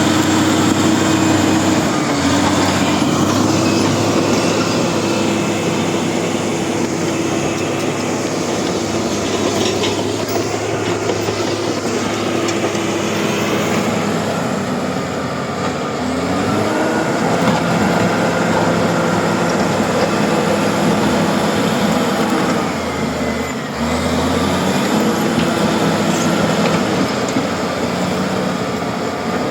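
Bulldozer's diesel engine running under load with the clatter of its crawler tracks, the engine note dipping and recovering a few times as the load changes.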